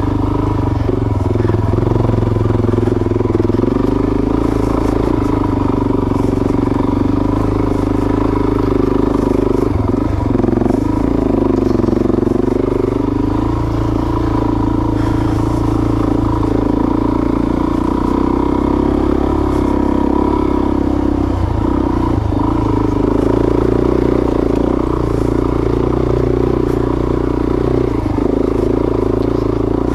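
Suzuki DR-Z400S single-cylinder four-stroke dirt-bike engine pulling hard up a steep climb, its revs wavering, dipping about ten seconds in and picking back up, as the clutch is slipped to keep it from bogging.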